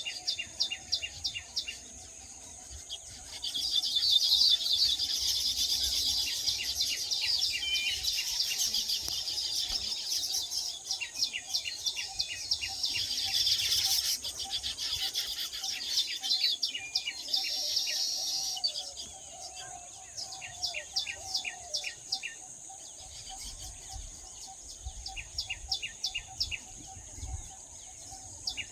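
Small birds chirping in quick repeated series, with a louder, dense chattering for much of the middle stretch, over a steady high-pitched insect buzz.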